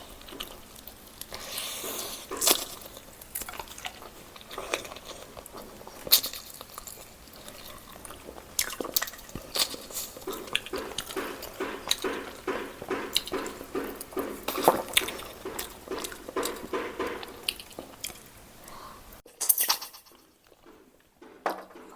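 A person eating close to the microphone: wet chewing and smacking with many sharp clicks and occasional crunches. About three seconds before the end the sound cuts out abruptly to near quiet.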